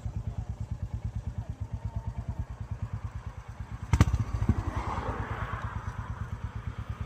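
Royal Enfield Classic 350's single-cylinder engine idling through an aftermarket exhaust tip, with an even beat of exhaust pulses that sounds free-flowing, not choked. About four seconds in there is a sharp knock and the exhaust gets briefly louder.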